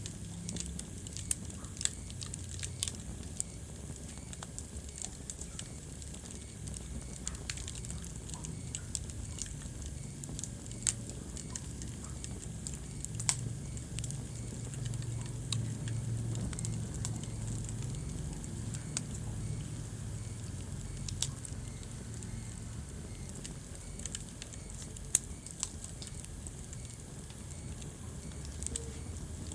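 Wood fire burning in a fireplace: irregular sharp crackles and pops, a few louder ones, over a steady low rumble of the flames.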